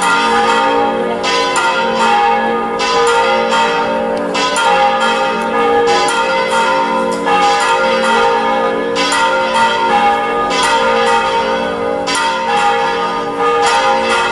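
Church bells ringing: several bells struck in quick succession, their tones overlapping and ringing on.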